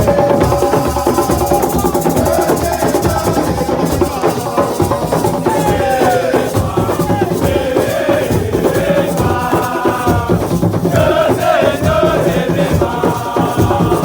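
Live group singing over dense drumming and percussion, with the voices coming in strongly in the second half.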